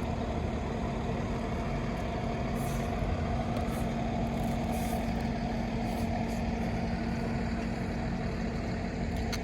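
Steady hum of an idling vehicle engine, an even drone that doesn't change, with a few faint ticks.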